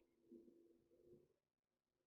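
Near silence: a faint low hum that fades away about a second and a half in.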